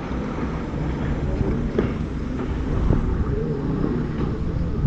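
Several jet skis running out on the water, their engine notes rising and falling in pitch, over wind rumbling on the microphone.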